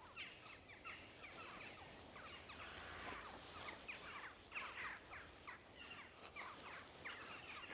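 A flock of jackdaws calling, fledged young by the sound of it: many short, falling 'chack' notes overlapping in quick, irregular succession, faint.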